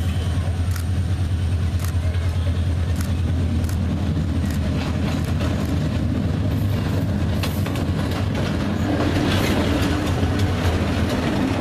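Diesel locomotive of an express train coming close along the track with a steady low engine drone and occasional sharp clicks from the rails. From about nine seconds in, the wheels rumble and clatter as the locomotive passes right beside the microphone.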